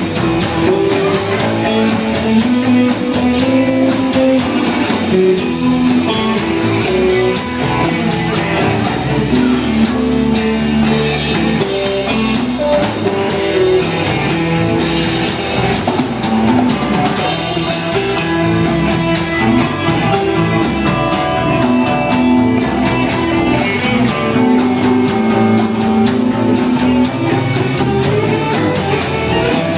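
Live rock band playing an instrumental passage, with drum kit, bass line and guitar.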